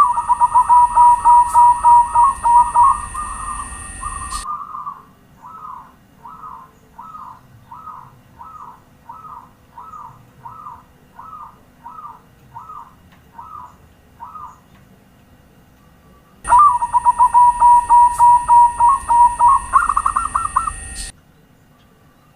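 Zebra dove (perkutut) cooing. Two loud passages of rapid, trilled coos, with a quieter run of about a dozen separate coos between them, roughly two a second. A steady high hiss runs under the loud passages.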